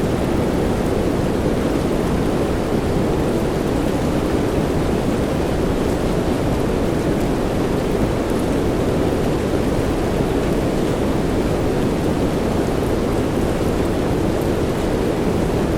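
Steady rain noise, an even hiss weighted low with a deep rumbling undertone and a few faint drop ticks.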